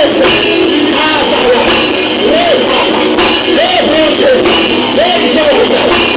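Live worship music from a full band, a melody line rising and falling in repeated arcs over held chords, with a crash about every second and a half.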